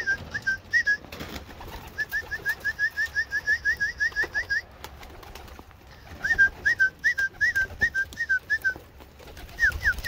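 A bird singing runs of quick, slurred whistled notes, about six a second, in several bursts with short pauses between them.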